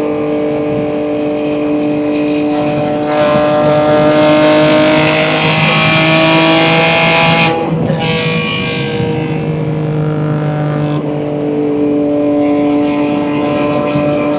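BMW M2 G87's S58 twin-turbo straight-six with catless downpipes pulling under throttle, its exhaust note rising for about four seconds. About halfway through it cuts off sharply and comes back at a lower pitch after a manual upshift, then runs as a steady drone with a little more throttle near the end.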